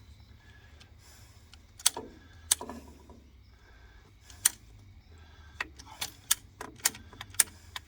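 Irregular sharp metallic clicks and clinks from hand-work on the pump's plumbing fittings, a few at first and coming faster in the second half, over a faint low hum.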